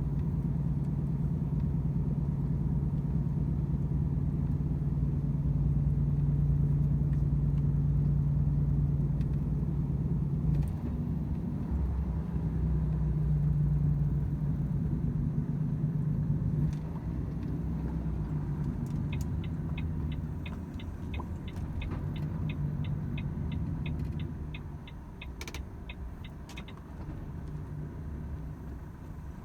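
Volvo FH 500 truck's 13-litre inline-six diesel running, heard from inside the cab, with a steady low engine note. The note changes twice and then falls away as the engine quietens toward idle. In the second half a quick, even ticking comes in at about three ticks a second for several seconds.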